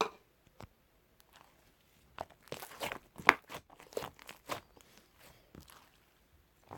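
Hands squeezing and stretching slime, making irregular crackling and popping clicks. The clicks come one at a time at first and grow dense from about two seconds in.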